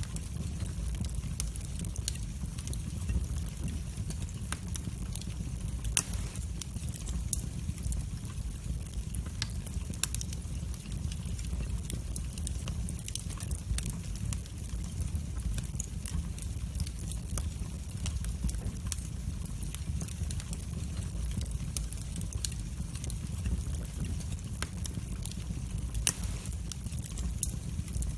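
Wood fire burning in a fireplace: a steady low rumble of flames with scattered crackles and pops, two louder pops standing out.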